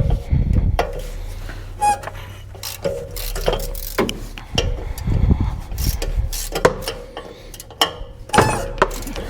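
Mechanic's hand tools working on the truck's front end: a socket ratchet clicking, metal knocks and clanks, and a few short squeaks.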